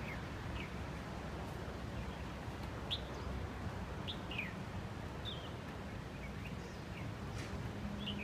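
Small birds chirping now and then, short high chirps about every second. Under them runs a steady low drone with a faint hum, which the onlookers guess is the stranded container ship's engines working or its hull scraping.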